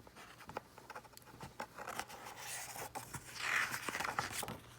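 Paper rustling and scraping with small clicks as a picture-book page is handled and turned; the loudest rustle comes about three and a half seconds in.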